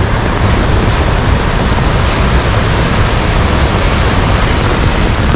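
Wei Sawdong Falls in heavy monsoon flow: a loud, steady rush of falling water with no let-up.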